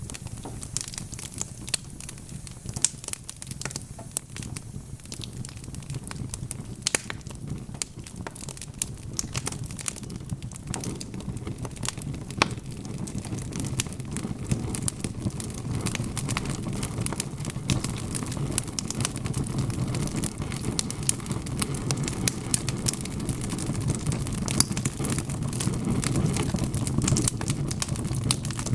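Wood logs burning in a fireplace, crackling with frequent sharp, irregular pops. Under them runs a low rumble that grows louder about a third of the way through.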